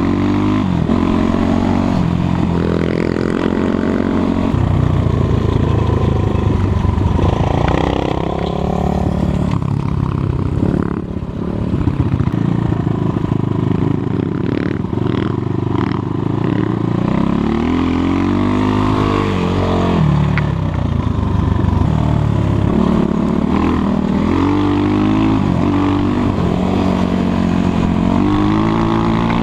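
Enduro motorcycle engine running under load off-road, the revs rising and falling over and over as it is ridden, with a brief drop in revs about eleven seconds in and a few knocks around the middle.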